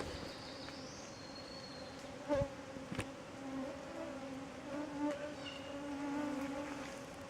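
Flying insects buzzing close by: a wavering drone that comes and goes in pitch. A faint high bird note sounds near the start, and two sharp clicks come about two and three seconds in.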